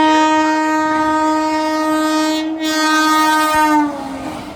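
Locomotive horn sounding one long, loud blast of nearly four seconds from a train passing the platform, its pitch sagging slightly as it cuts off.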